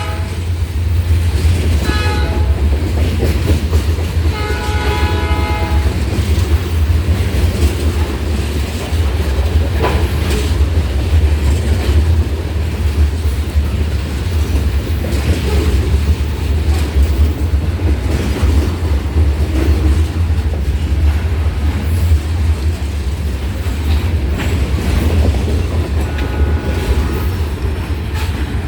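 Freight train rolling past with a loud, steady low rumble of wheels on rail. The diesel locomotive's horn sounds a short blast about two seconds in and a longer one around five seconds, and a fainter blast comes near the end.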